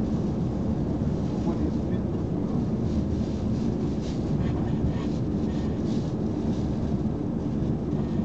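Steady rumble of a commuter train heard from inside the carriage as it rolls into a station, with a few faint rattles and clicks around the middle.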